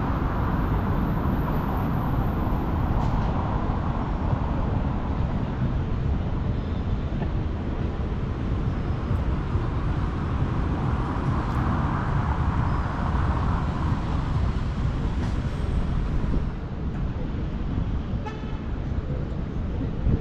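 Steady city street traffic noise: road noise from passing vehicles, swelling about halfway through and easing slightly near the end.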